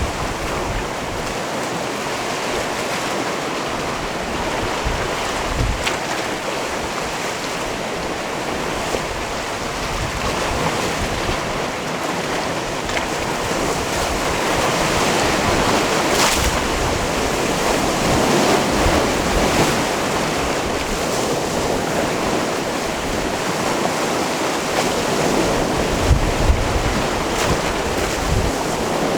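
Sea waves washing onto a rocky cove's shore: a steady surf hiss that swells louder around the middle and again near the end. Wind buffets the microphone now and then with low thumps.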